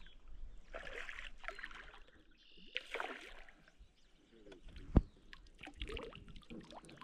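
Water splashing and sloshing in short irregular bursts, with one sharp knock about five seconds in and a brief clatter just after it.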